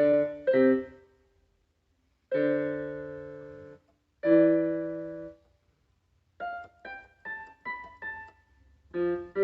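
Piano notes: a couple of quick notes, then two chords struck about two seconds apart and each left to ring and fade for over a second, followed by a run of short single high notes and a few more notes near the end.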